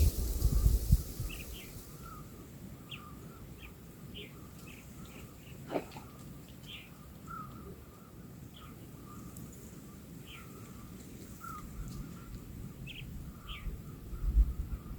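Birds chirping: short, scattered calls every second or so over a fainter, broken chattering. There is a single sharp click about six seconds in, and low rumbling at the start and near the end.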